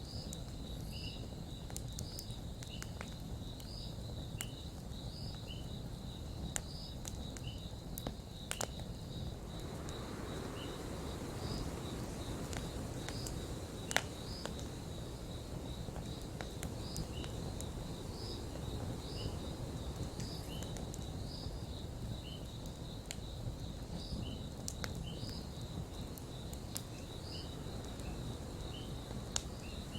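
Campfire crackling, with scattered sharp pops and one louder pop about halfway through, over a low steady rush. Behind it, crickets keep up a steady high trill with regular chirps about once a second.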